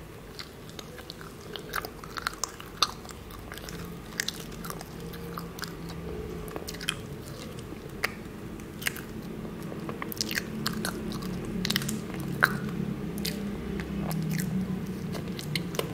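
Close-up chewing and mouth sounds of a person eating matcha sponge cake roll: soft, wet chewing with many scattered small clicks and smacks over a low steady hum.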